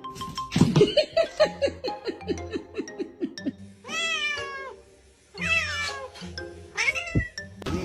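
Cat meowing: a quick run of short falling calls in the first few seconds, then two long drawn-out meows and a shorter one near the end.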